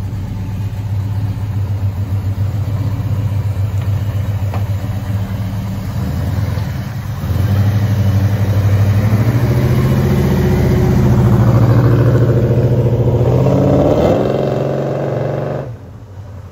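Big-block 396 V8 of a 1970 Chevelle SS, fitted with FiTech fuel injection, running under way. It gets louder about seven seconds in and rises in pitch as it revs near the end, then the sound drops away abruptly.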